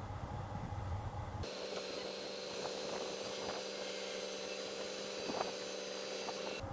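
A low, steady rumble, then an abrupt switch about a second and a half in to a steady mechanical hum with a faint hiss and a few soft clicks.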